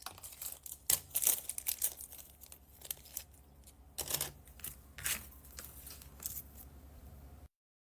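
Plastic packaging bags crinkling and rustling in irregular bursts as they are handled and pulled open. The sound cuts off suddenly near the end.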